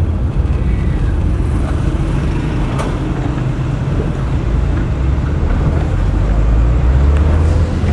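Moving road vehicle: a steady low engine and road rumble that swells about six to seven seconds in.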